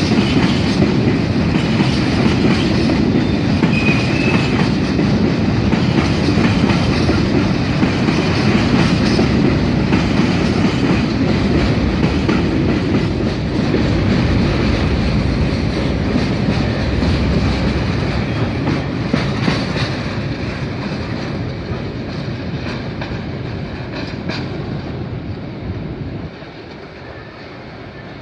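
A train rolling past at trackside, its wheels and wagons rattling steadily, with a brief squeal about four seconds in. The sound fades as the train moves away and drops off sharply near the end.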